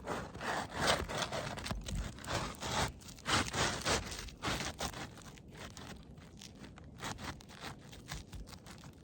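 Asphalt shingle being scraped and worked by hand on a roof: a run of irregular gritty scrapes and rustles, busiest in the first half and thinning out toward the end.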